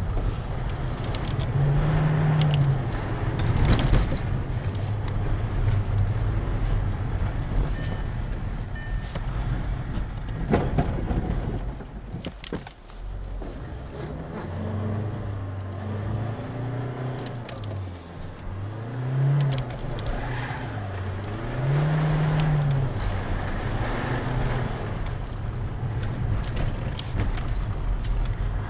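Škoda Octavia RS engine heard from inside the cabin, its revs climbing and dropping several times as the car is driven on snow, over steady tyre and road noise, with a few sharp knocks and rattles.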